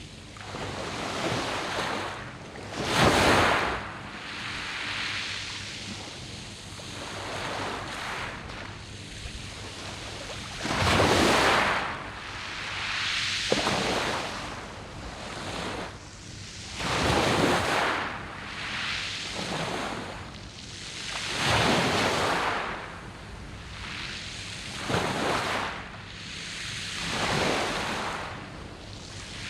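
Sea waves breaking on a round-pebble beach, a steady wash that swells into a louder surge every few seconds and then draws back. The biggest surges come about three seconds in and about eleven seconds in.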